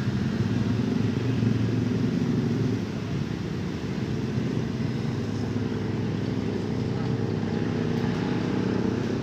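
Honda Civic FD's engine idling steadily.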